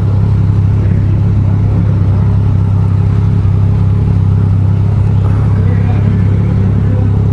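Motorcycle engine idling steadily, a loud, even low hum with no change in pitch.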